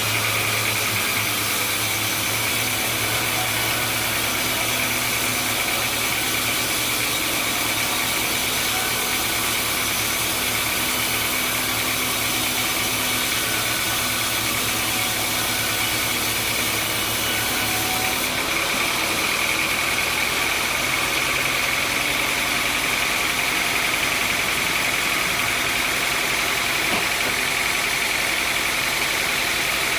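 Sawmill machinery running steadily: a constant motor hum under a steady high-pitched whine, shifting slightly about two-thirds of the way through.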